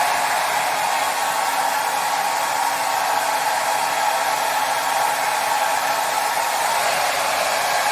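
Electric hair dryer running, a steady, even blowing noise with a faint hum from its motor that does not change.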